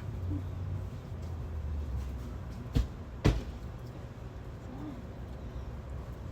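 Two sharp knocks about half a second apart, the second louder, over a steady low rumble.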